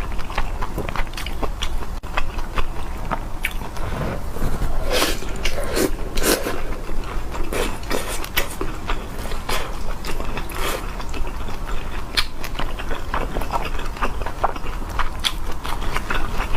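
Close-miked eating: a person biting and chewing food, with many irregular short wet clicks and smacks.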